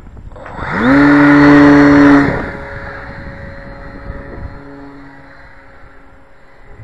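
Electric RC model plane's motor and propeller spooling up quickly to full-throttle whine, holding steady and loud for about a second and a half, then dropping in level and fading to a fainter steady drone.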